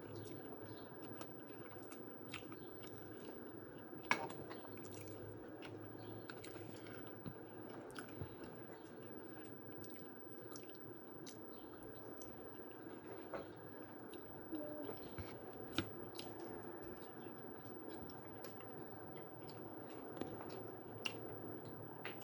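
A person chewing and smacking on scrambled eggs and cheese-topped toasted bread, close to the microphone. The mouth sounds come as many small scattered clicks, with a sharper click about four seconds in.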